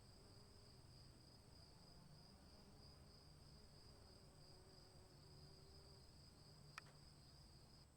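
Faint, steady chirring of crickets, a continuous high-pitched trill with no breaks, with a single soft click near the end.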